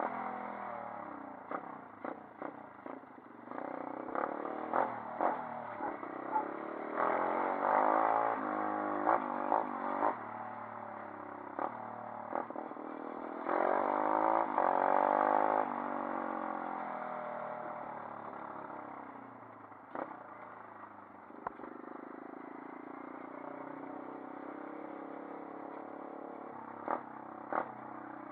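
140cc pit bike's single-cylinder four-stroke engine revving up and down, its pitch rising and falling, with two louder spells of hard revving, one about a quarter of the way in and one about halfway. Sharp clattering knocks come and go throughout.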